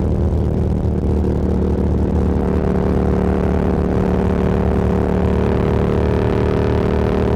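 Motorcycle engine running at a steady cruising speed, its note holding an even pitch throughout.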